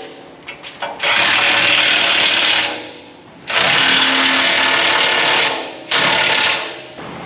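Impact wrench running in three bursts, the first two about two seconds each and the last under a second, with short pauses between.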